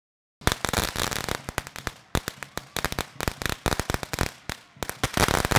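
Fireworks going off: a rapid, irregular crackle of many sharp pops starting about half a second in, with two brief lulls.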